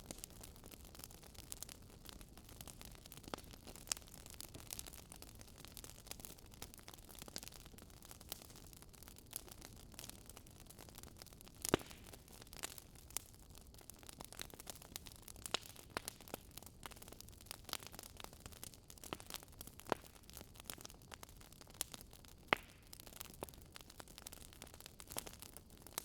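Quiet crackling of a wood fire: irregular sharp pops and snaps over a soft steady hiss, with one louder pop about halfway through.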